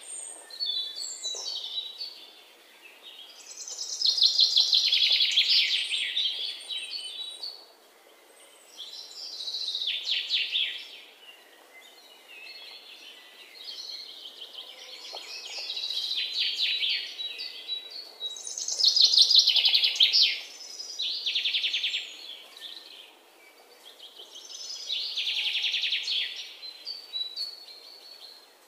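Birdsong: a small bird singing fast trilling phrases, each lasting a second or two and recurring about every five seconds.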